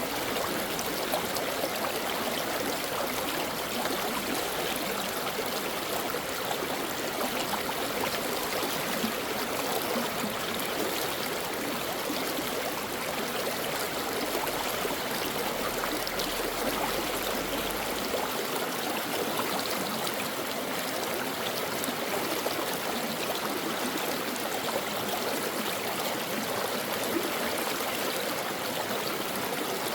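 A stream of water running over rocks, a steady rushing and babbling with small trickles.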